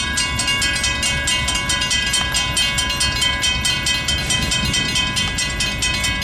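Railroad grade-crossing warning bells ringing in a fast, even run of strikes over the steady low rumble of a train rolling through the crossing.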